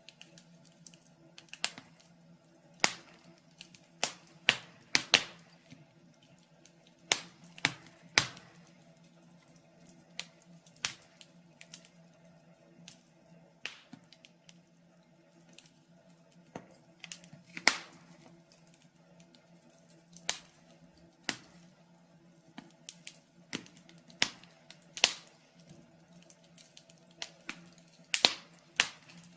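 Wood fire burning in a fireplace, crackling and popping with irregular sharp snaps about once a second, over a faint steady low hum.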